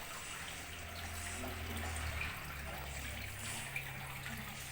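Water trickling steadily, with a low hum underneath.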